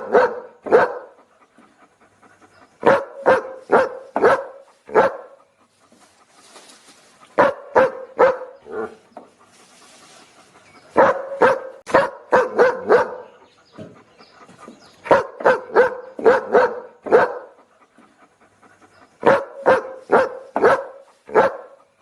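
A dog barking in quick runs of five or six sharp barks, with a pause of about two seconds between runs.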